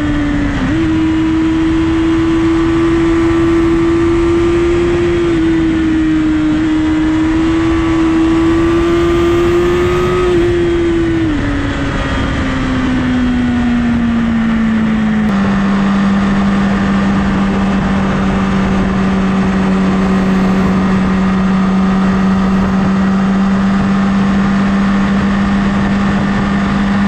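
Honda CBR1000RR inline-four sport bike engine running steadily under way. Its pitch holds, eases down about eleven seconds in, drops abruptly about fifteen seconds in, then stays level.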